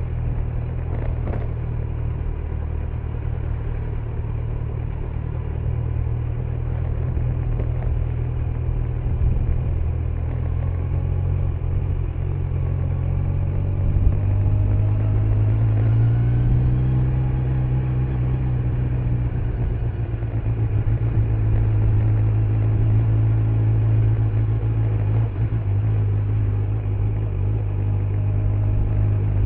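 Kawasaki Z900 inline-four motorcycle engine with stock exhaust running under way, a steady low rumble. About halfway through the engine note climbs and then falls back as the bike accelerates and eases off.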